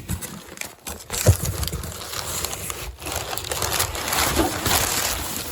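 Cardboard shipping box being opened by hand, its flaps pulled back and packing paper inside rustling and crinkling, with a thump about a second in.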